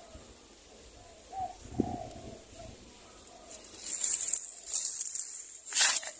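Spotted doves cooing, a few short low coos in the first three seconds. Later comes a stretch of high hissing rustle, and near the end a short, sharp burst of noise that is the loudest sound.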